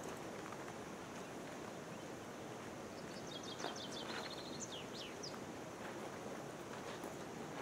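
Outdoor ambience with a steady noisy background, through which a small bird sings once, about three seconds in: a quick run of high notes, a short trill and a couple of falling notes.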